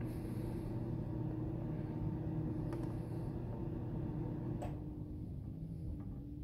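Steady low rumble of an idling vehicle engine, with one sharp click about four and a half seconds in.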